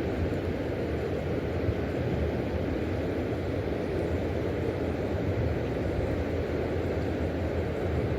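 Steady low roar of water rushing through the river dam, even in level with no separate events.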